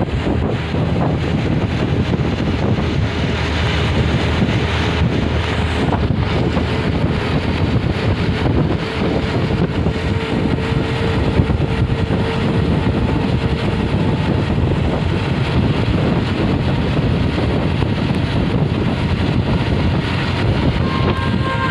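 Bus travelling along a road: a steady rumble of engine and road noise, with wind buffeting the microphone.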